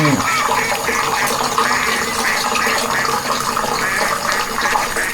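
Steady rush of running or pouring water, with short high chirps repeating about twice a second.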